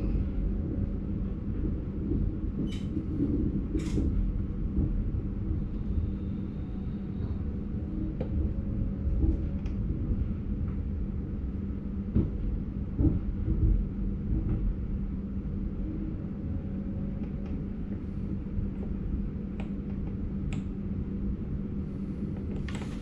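Cab sound of an NS Sprinter Light Train electric multiple unit rolling slowly: a steady low rumble with a constant hum, and a few brief light knocks and clicks.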